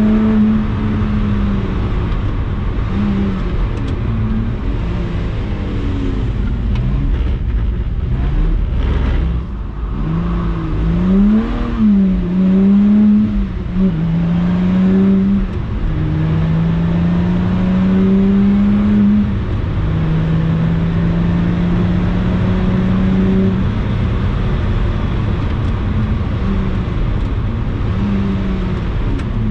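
Lotus Exige 350 Sport's supercharged 3.5-litre V6 at full driving load, its note climbing steadily and dropping off again as the car accelerates, shifts and lifts off. Near the middle the engine speed swings quickly up and down several times as the throttle is worked.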